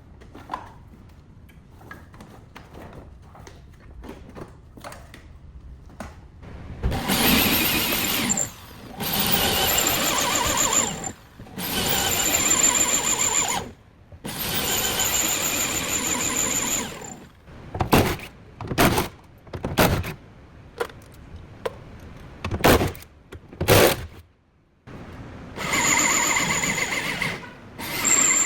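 A power tool run in repeated bursts of one to two and a half seconds, each with a steady high whine over a hiss. Several sharp knocks come in a cluster about two-thirds of the way through.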